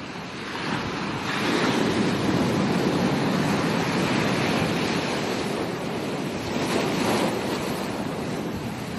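Ocean surf breaking on a beach: the rushing hiss of a wave swells about a second in, stays loud, surges again near seven seconds, then eases as the water washes back.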